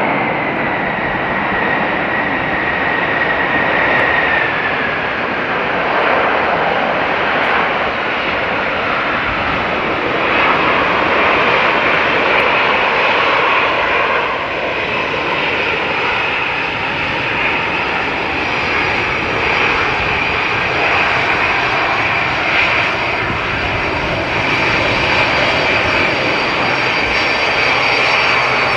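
Jet airliner engines running loud: a steady rush with a high whine that slides down in pitch a few seconds in, and higher whines later on.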